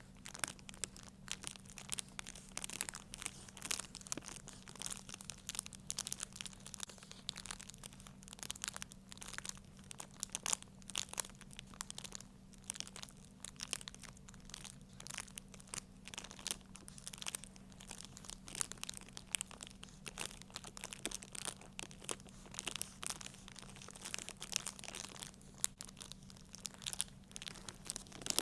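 Continuous, irregular crinkling and crackling of a material being handled and crumpled close to the microphone, over a steady low hum.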